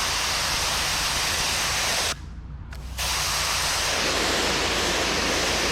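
Pressure washer wand blasting water onto a concrete sidewalk: a steady, loud spray hiss over the low hum of the machine. The spray stops abruptly about two seconds in, as the trigger is let go, and starts again about a second later.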